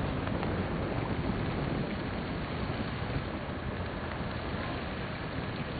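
Steady rushing outdoor noise, even throughout, with no distinct tones or impacts.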